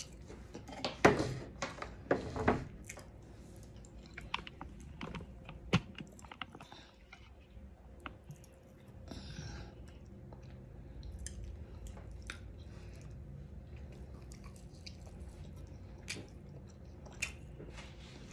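Close-up chewing of crisp battered fried flounder, with sharp crunches loudest in the first few seconds, then softer wet chewing and mouth clicks.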